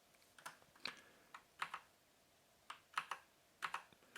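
Keys of a mechanical keyboard with Kailh Brown tactile switches being pressed, about seven sharp clacks at an uneven pace, many of them in quick pairs as keys go down and come back up.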